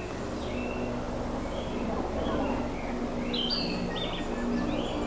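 Narcissus flycatcher singing short whistled phrases, the clearest a little past halfway, with children's voices in the background.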